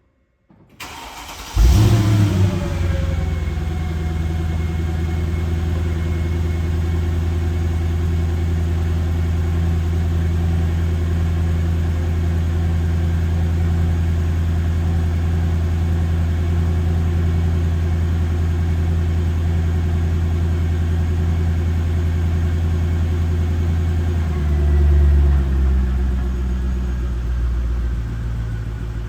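2006 Mercedes-Benz CLK55 AMG's 5.4-litre V8 starting from cold: a brief crank, then it catches about a second and a half in with a loud flare and settles into a steady fast cold idle. Near the end the idle note drops and steps down to a lower idle.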